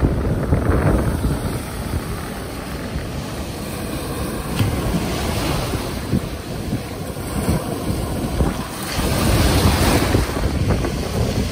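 Ocean waves breaking and washing in, the surf rising in surges every few seconds with the loudest one about nine seconds in, over wind rumbling on the microphone.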